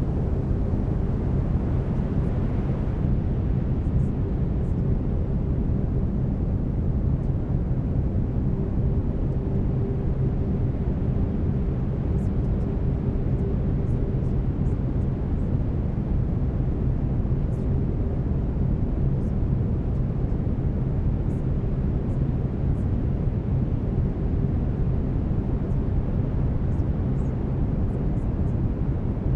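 Steady brown noise, a deep even rumbling hiss heavier in the lows, with a faint steady tone underneath from the delta-wave binaural beats.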